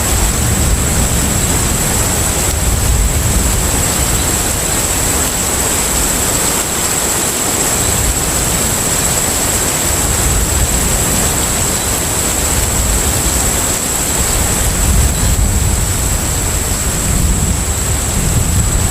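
Steady ambience of a container ship at sea: a deep, continuous engine rumble under an even wash of water and wind noise, with a thin steady high-pitched tone above it.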